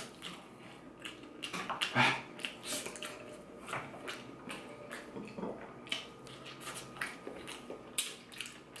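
Close-miked chewing of a spoonful of rice and beans: wet mouth clicks and smacks, the loudest about two seconds in.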